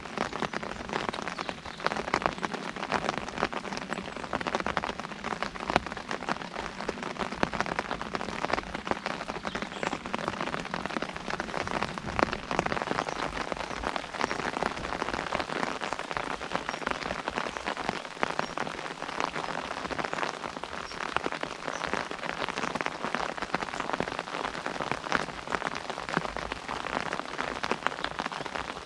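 Rain pattering steadily on an umbrella: a dense, even spatter of many drops striking the canopy close overhead.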